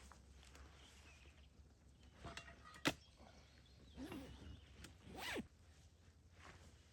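A few short rustling strokes and one sharp click, like gear being handled at close range.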